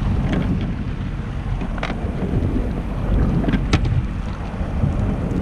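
Wind buffeting the microphone on a moving jet ski, a steady low rumble over the watercraft's running, with a few sharp splashes or knocks about two seconds in and again near four seconds.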